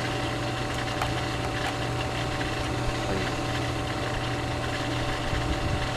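A steady machine hum, even and unchanging, with a couple of faint clicks.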